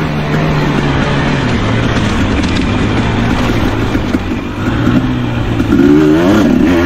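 Dirt bike engine running under load, its pitch dropping a little about a second and a half in and rising again near the end as the throttle comes back on.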